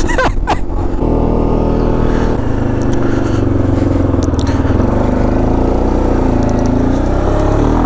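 Engine of an off-road vehicle carrying two riders, running steadily under way; its pitch steps to a new level about a second in and again around two and a half seconds in, like gear changes.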